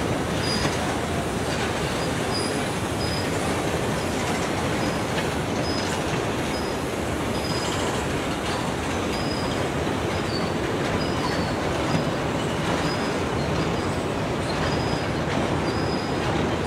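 Railroad cars rolling past on the rails: a steady rumble with short, high-pitched wheel squeals coming and going every second or so.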